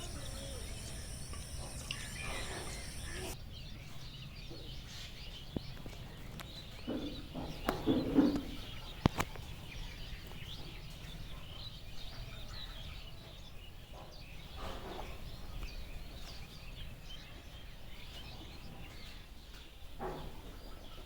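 Rainforest ambience: assorted birds chirping and calling over a steady low background. A high, steady whine stops about three seconds in, and a louder, lower call comes about eight seconds in, followed by a sharp click.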